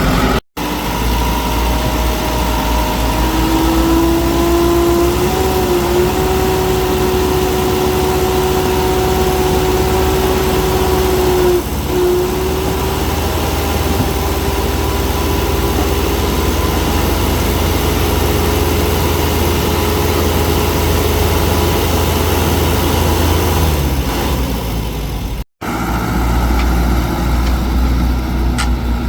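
Excavator diesel engine running steadily, with a whining tone over it that shifts a little in pitch. The sound drops out abruptly for an instant just after the start and again near the end.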